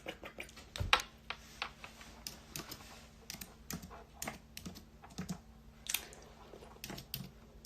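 Irregular light taps and clicks close to the microphone, a few a second, with a sharper knock about a second in.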